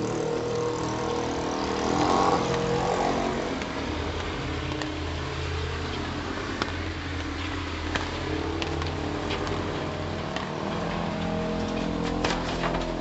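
Heavy rain falling, with the steady hum of vehicle engines from the street underneath it. A few sharp clicks come near the end.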